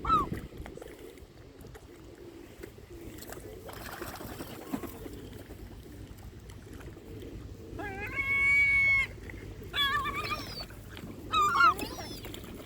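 Large birds calling over a low, steady outdoor background: a short call at the start, one long, even call about eight seconds in, then a few shorter calls that drop in pitch.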